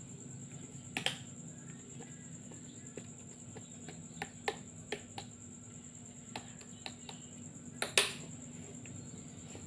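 Traditional massage: about ten sharp, irregular clicks and snaps from the masseur's hands working the body, the loudest two close together near the end. A steady high whine and a low hum run underneath.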